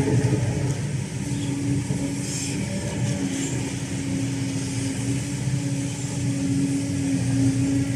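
Kobelco SK210LC excavator running, its Hino J05E four-cylinder diesel engine going steadily with a constant tone over the engine noise.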